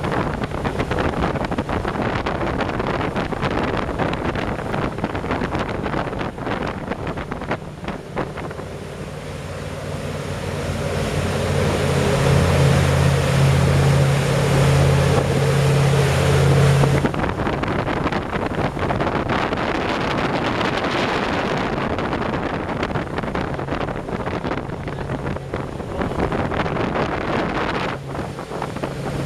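Motorboat engine running steadily under way, with wind on the microphone and water rushing past. The engine hum grows louder a little before halfway, then drops away abruptly just past halfway, leaving mostly wind and water.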